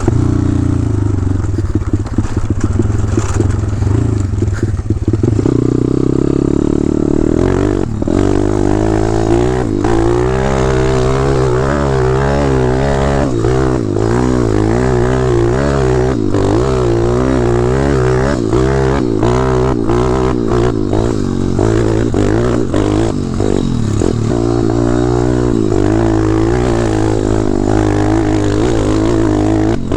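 Gas dirt bike engine being ridden hard, steady for the first few seconds, then revving up and down over and over as the rider works the throttle.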